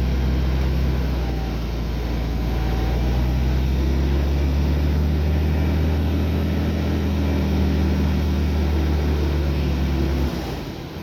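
Heavy diesel engine of earthmoving equipment running steadily, its note dropping abruptly and getting quieter near the end.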